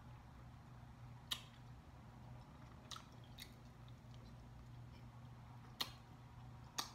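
Quiet close-up chewing of a mouthful of pork tenderloin, with about five sharp short clicks scattered through.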